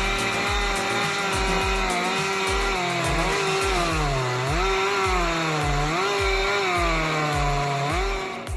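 Two-stroke chainsaw running at full throttle while cutting through a large tree stump, its pitch dipping as the chain bites and recovering, a few times. Background music with a steady bass beat plays along with it.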